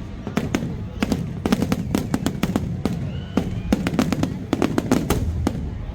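Fireworks display: a rapid, continuous barrage of bangs and crackles, several a second, over a steady low rumble.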